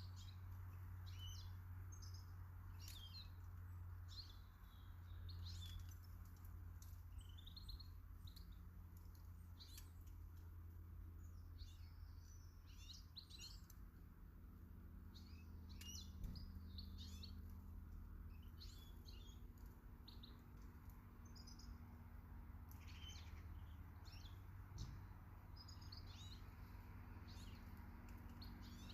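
Small garden birds chirping and singing: short quick calls and trills, scattered throughout, over a faint steady low rumble.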